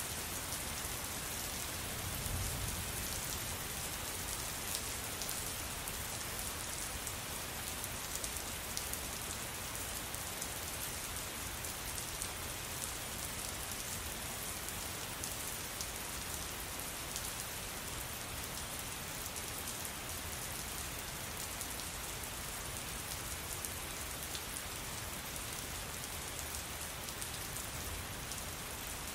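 Steady rain falling and pattering on a surface, with many small drop ticks. A soft low rumble swells briefly about two seconds in.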